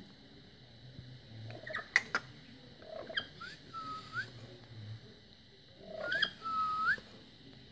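Pet lory whistling: two whistled phrases a few seconds apart, each a short rising note and then a held tone that sweeps up at the end. A few sharp clicks come before the first phrase.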